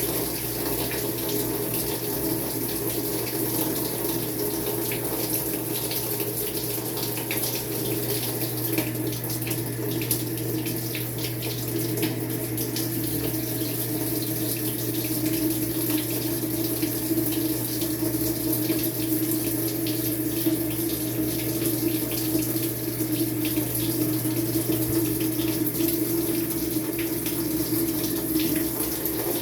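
Maytag MVWX655DW1 top-load washer running water into its tub during a tub-clean cycle: a steady rush of water with a low hum under it.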